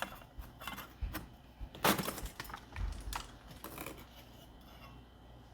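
Humidifier-grown freezer frost, soft and not frozen hard, crunching and crackling under the fingers as it is pressed and moved: a run of small irregular crackles and clicks, the loudest about two seconds in, thinning out after about four seconds.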